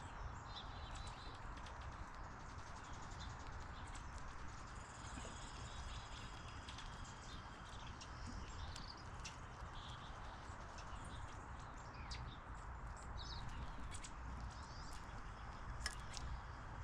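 Backyard ambience: faint bird chirps and calls over a steady low background hum, with scattered light taps and ticks.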